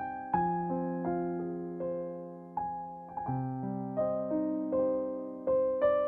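Background music: slow, gentle piano, single notes and chords struck every half second or so, each left to ring and fade.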